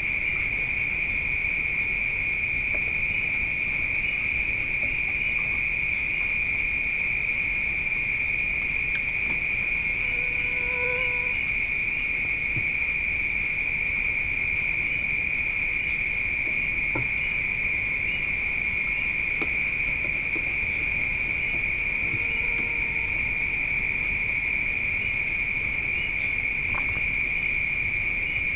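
Night insects, crickets, trilling in a steady continuous chorus, a shrill high pulsing with no pauses.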